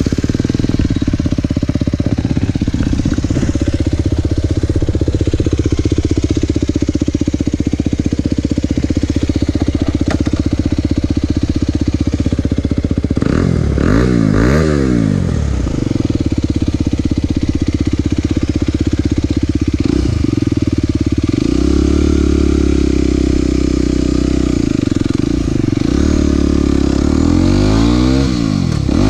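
Aprilia SX 125's single-cylinder four-stroke engine, breathing through an Arrow exhaust with the dB killer removed, running at a steady idle. It is revved briefly twice a little under halfway through, raised again about two-thirds of the way in, and blipped a couple more times near the end.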